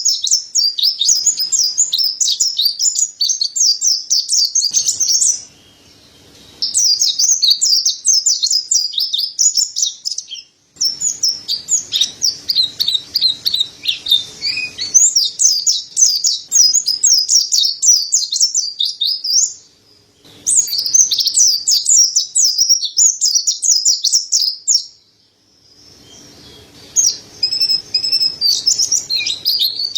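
Mountain white-eye (pleci dada putih, 'montanus') singing a rapid, high, twittering chatter in long runs broken by short pauses.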